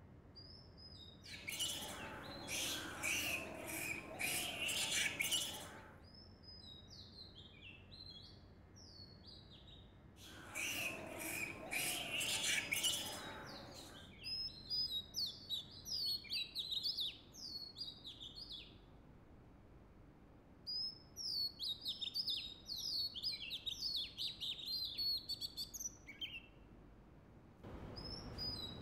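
Wild birds calling: runs of quick, high, falling chirps, with two louder stretches of harsh, scratchy calling in the first half.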